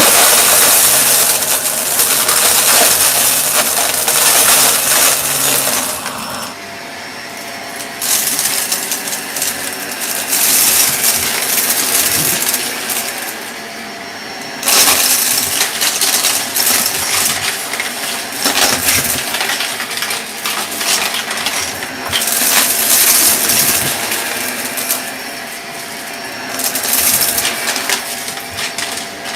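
Purple Shark vacuum cleaner running steadily, with loud stretches of fine rattling that come and go every few seconds as debris is drawn into it.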